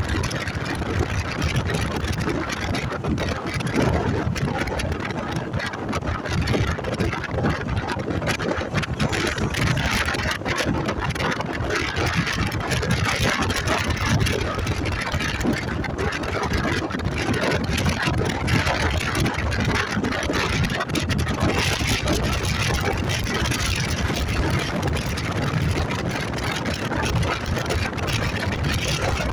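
Motorcycle underway, its engine running under a steady, dense rush of noise.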